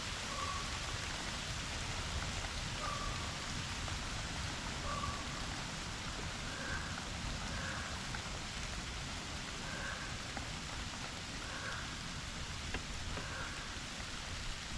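Steady rain falling, an even hiss with no let-up. A short faint sound recurs every second or two.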